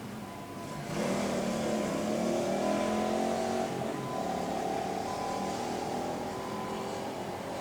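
A vehicle passing by, its steady mechanical hum rising suddenly about a second in and slowly easing off.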